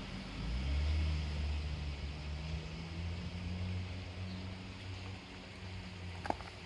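A low engine hum swells about half a second in and slowly fades, over a steady rushing hiss, with a sharp click near the end.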